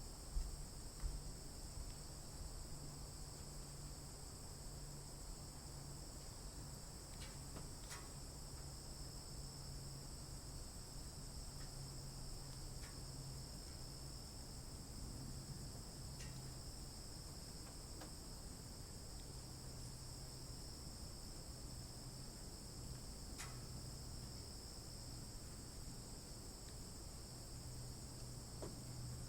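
Steady high-pitched insect chorus, an unbroken drone with a low steady hum beneath it. A couple of soft thumps come about a second in, and a few faint short chirps are scattered through.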